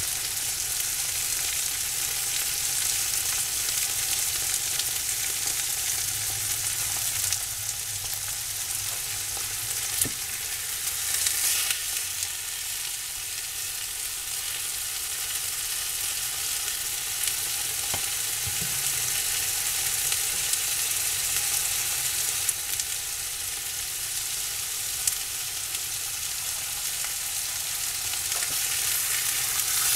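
Ribeye steaks and trumpet mushrooms sizzling steadily in a cast-iron skillet, with a few light clicks of a fork moving the mushrooms in the pan.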